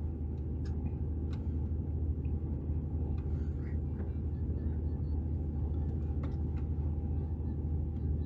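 Low, steady hum of a car's running engine heard from inside the cabin, with a few faint clicks.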